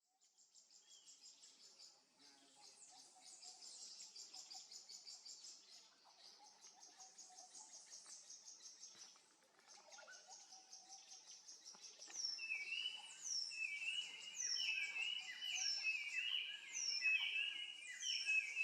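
Forest birds and insects: high, rapid trills in bouts of about two seconds, then from about twelve seconds in a bird repeats a quick falling call over and over, louder.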